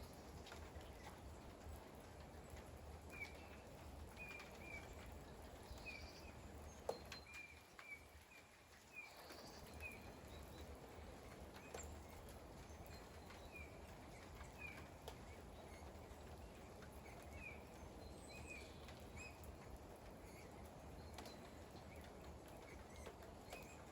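Faint steady rain, with a small bird giving short high chirps every second or so and a single sharp click about seven seconds in.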